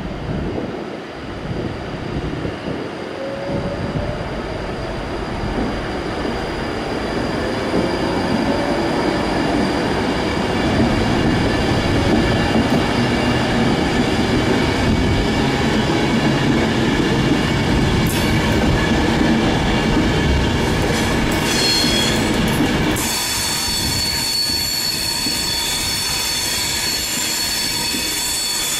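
Class 390 Pendolino electric train moving off and rolling past, a steady rumble of wheels on rail that builds over the first ten seconds. High-pitched wheel squeal sets in after about 18 seconds and continues to the end.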